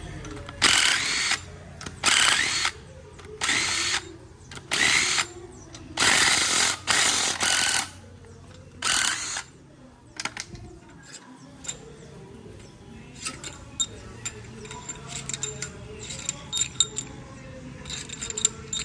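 Cordless power drill running in about seven short bursts, each well under two seconds, working on parts of a 5.3 V8 engine being taken apart. In the second half there are only light metallic clicks and clinks of tools and parts being handled.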